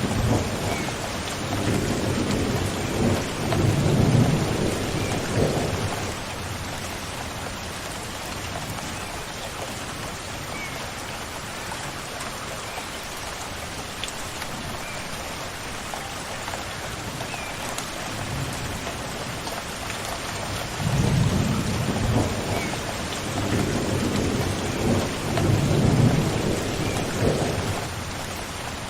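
Steady rain falling, with two long rolls of thunder rumbling low: one in the first few seconds and another about two-thirds of the way through.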